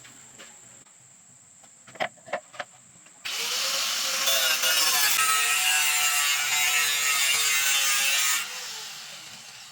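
Three short clicks, then a power tool runs for about five seconds with a steady whine over a loud rasping noise and cuts off.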